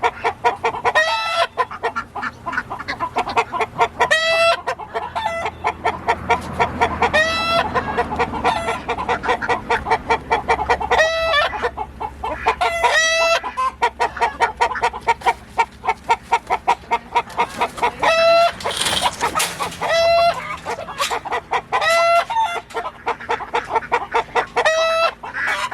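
A crowd of chickens calling: roosters crowing again and again every few seconds over a constant din of clucking, with a brief harsh squawk or flurry about two-thirds of the way through.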